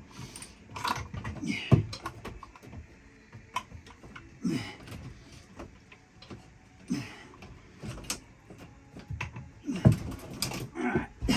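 Irregular knocks, clicks and clunks of hand tools and parts being handled while disconnecting a boat engine, with a few short grunts or mutters.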